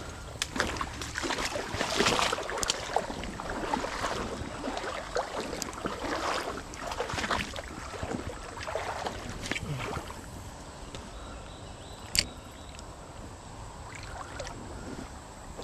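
Footsteps pushing through thick brush and grass, with dense crackling and rustling for about ten seconds. After that it turns quieter, with one sharp click about twelve seconds in.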